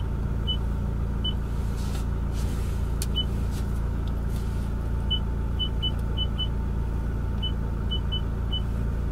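Toyota Hilux diesel engine idling steadily, heard inside the cab. About a dozen short high beeps from the infotainment touchscreen sound over it as the audio balance and fader are tapped, several in quick succession in the second half.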